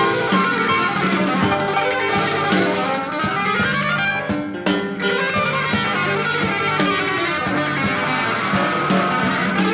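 Instrumental break in a blues-rock band recording: a lead line of moving notes over guitar, bass and a steady drum beat, with no singing.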